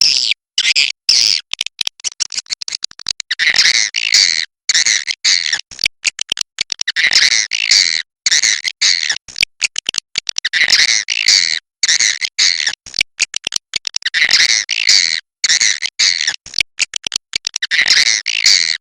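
Edible-nest swiftlets (burung walet) twittering in a dense, high chatter. The calls swell in bursts about every three and a half seconds and are chopped by many short, abrupt silent gaps.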